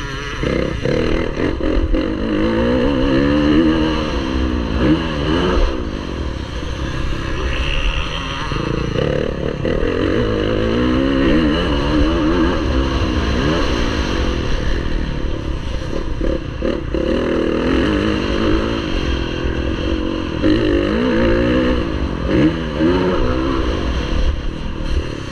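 MX1 motocross bike engine at race pace, its pitch rising and falling again and again as the throttle is opened and shut through the track, over a steady low rumble.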